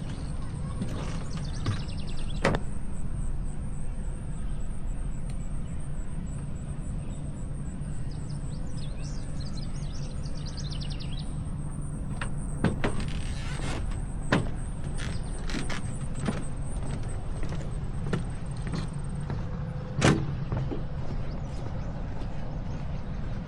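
Outdoor ambience: a steady low rumble with a thin high whine that stops about two-thirds of the way through, and scattered sharp clicks and taps, the loudest one near the end.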